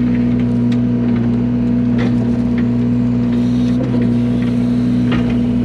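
Yanmar mini excavator's diesel engine running steadily under load while its grading bucket digs into hard ground. A few short knocks and scrapes from the bucket and dirt come through over the engine.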